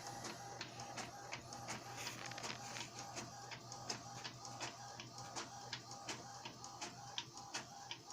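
Epson L120 inkjet printer running, its mechanism ticking in a steady rhythm of several clicks a second over a pulsing whine and a low hum.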